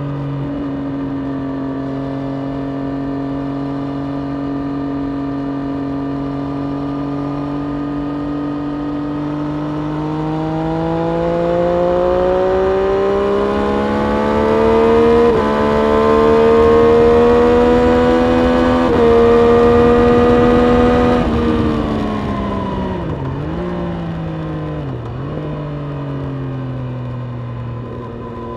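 Triumph Street Triple RS 765 cc three-cylinder engine heard onboard, holding a steady note, then accelerating with a rising pitch and two quick gear changes midway. About two-thirds through the throttle closes and the note falls, with two sharp dips as it is shifted down, before settling to a lower steady note.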